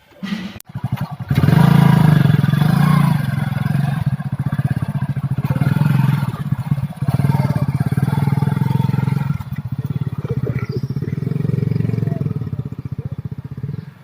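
A motor vehicle engine idling close by with a steady, fast, even pulse. It starts after a short knock about a second in.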